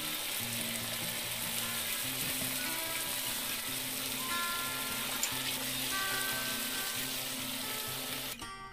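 Raw shrimp frying in melted butter with onion and garlic in a nonstick pan, a steady sizzle as they are stirred. Background music with held notes plays over it, and the sizzle cuts off near the end.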